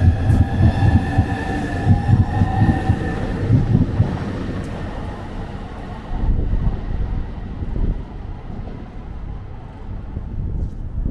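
Southeastern Class 395 high-speed electric train running: a steady electric whine over a pulsing rumble for the first three or four seconds, then the whine fades out and a duller rumbling noise goes on.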